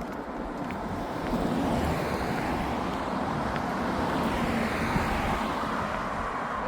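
Sea waves washing onto a beach, a steady rushing that swells about a second in, with wind buffeting the microphone.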